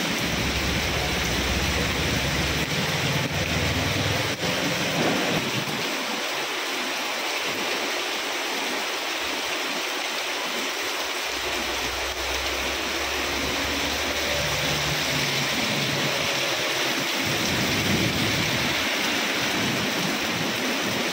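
Rain falling steadily onto a wet street, an even hiss, with a low rumble coming and going underneath.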